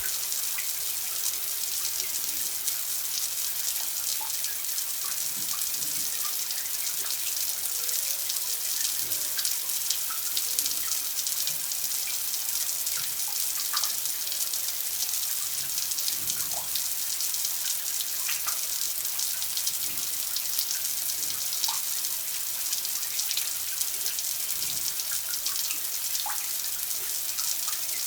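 Steady running water, a bright even hiss with scattered small drop-like plinks throughout.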